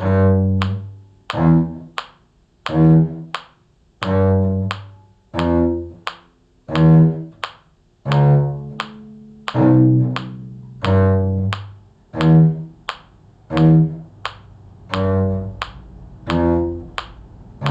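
A cello played pizzicato, plucking the low bass line of a slow tune in C. It plays one note at a time, about a note a second, and each note starts sharply and rings away.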